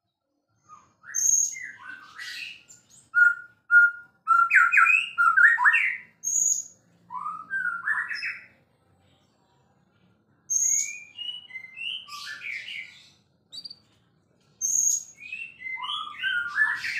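White-rumped shama (murai batu) singing in three bouts of rich, varied whistled phrases. Each bout opens with a sharp, very high note and runs into quick warbles and slurred notes lower down, with short silences between bouts.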